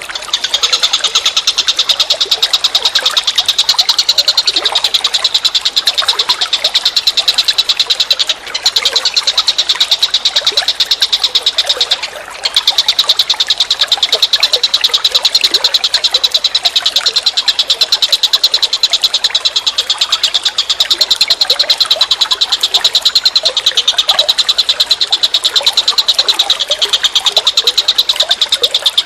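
An animal calling in a continuous, rapid, high-pitched pulsing trill, broken twice briefly about a third of the way in.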